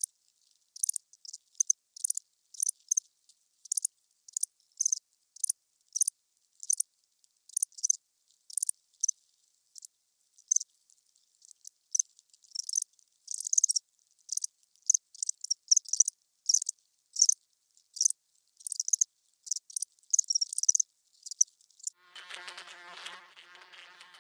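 An insect chirping in short, high-pitched chirps, about two a second with silence between them, bunching closer together in places. About 22 seconds in, the chirps stop and a lower, steady insect buzz takes over.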